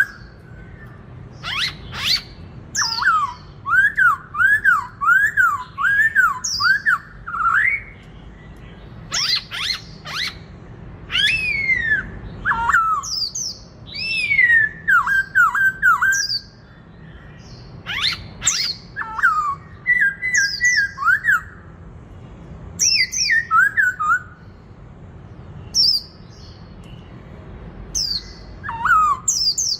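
Black-throated laughingthrush singing in loud repeated phrases of quick, looping whistled notes, with sharp higher notes and short pauses between phrases.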